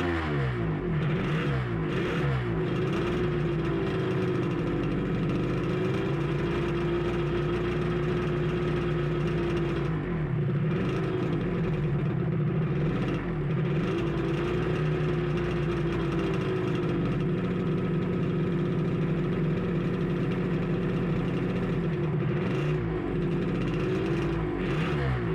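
Suzuki RG250Γ two-stroke twin engine running, holding a steady idle with the revs rising and falling several times.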